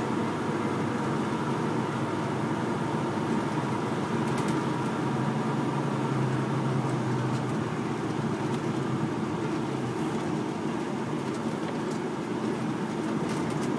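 Steady engine and road noise heard inside the cab of a big truck as it drives along.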